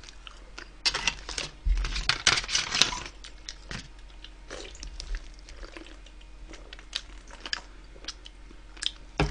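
Close-up eating and drinking sounds: chewing, crunching and small mouth clicks, busiest for a couple of seconds about a second in, then sparser.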